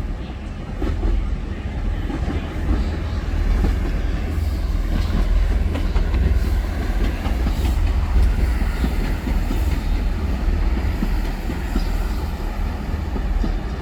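Diesel passenger train running through the station with a heavy, steady rumble. Wheels click over the rail joints, and the sound grows louder through the middle and eases off near the end.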